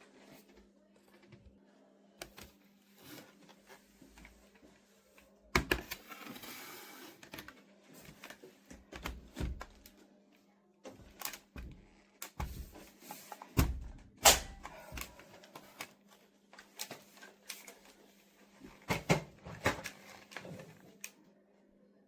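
Irregular clicks, knocks and light thuds of hard objects being handled, over a faint steady hum. The louder knocks come about five and a half seconds in, and in clusters around the middle and near the end.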